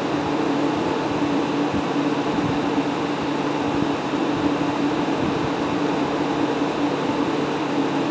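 Fedders A3R06F2B 5800 BTU window air conditioner running, freshly cleaned, with a steady rush of air from its fan and a constant low hum from its Rotorex rotary compressor.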